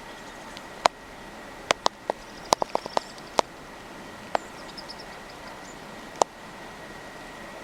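Small feeder birds: a scatter of sharp ticks and taps, several in quick succession, with faint, high, short chirps over a steady hiss.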